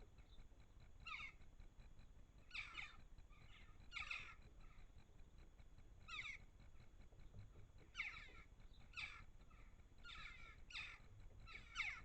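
Garden bird giving short, harsh calls, roughly one a second and sometimes in quick pairs.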